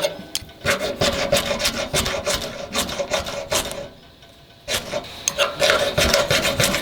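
Knife blade shaving thin curls off a very dry split log to make kindling: a quick run of scraping strokes, stopping briefly about four seconds in and then going on.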